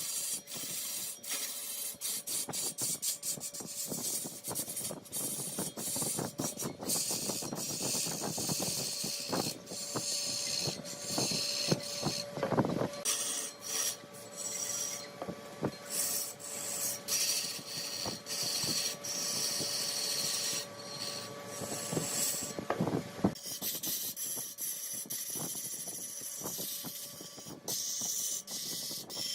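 Mahogany being turned on a large woodworking lathe: the cutting tool rasps against the spinning wood in a steady hiss broken by many short clicks, over a steady motor hum.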